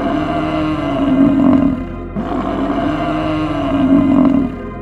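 Low, drawn-out animal calls, each about two seconds long, repeating back to back over soft background music.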